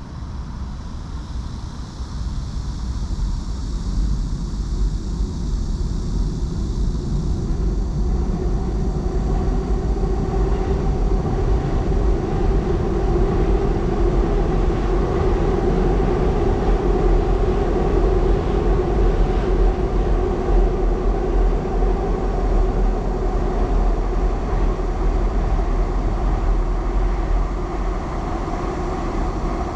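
Train crossing a railway bridge: a rumble with a droning note that builds over several seconds, is loudest about halfway through, then slowly fades, over a constant low rumble.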